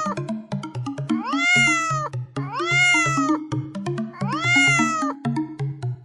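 Domestic cat meowing three times, about a second and a half apart, each meow rising and then falling in pitch. Background music plays underneath.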